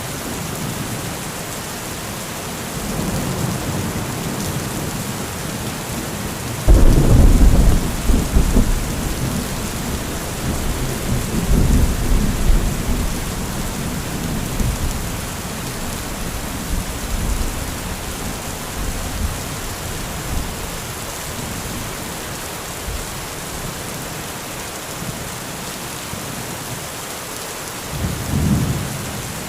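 Heavy thunderstorm: steady rain hiss, with a sudden loud thunderclap about seven seconds in that rumbles on for several seconds, and a shorter roll of thunder near the end.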